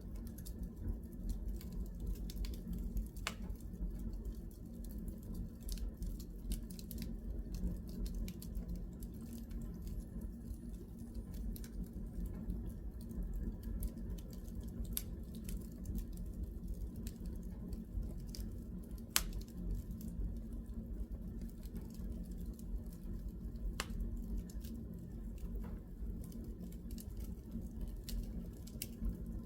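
Wood fire burning in a fireplace: a steady low rumble of the flames with scattered sharp crackles and pops from the logs, one louder pop about two-thirds of the way through.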